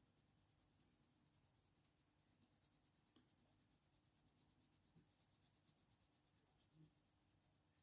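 Faint scratching of a Faber-Castell Polychromos coloured pencil shading on hot-press watercolour paper, in quick, even strokes, several a second.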